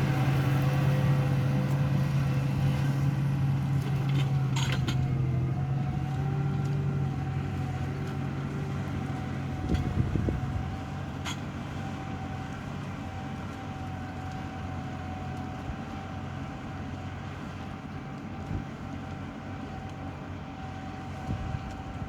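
Large farm tractor's diesel engine running steadily with a low drone, growing gradually quieter over the stretch.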